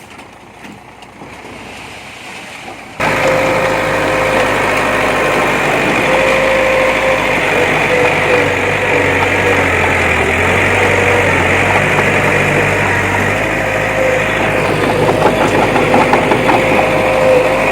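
Diesel engine of a heavy earthmoving machine running steadily, with a steady whine over a low hum. It cuts in suddenly about three seconds in, after a quieter stretch.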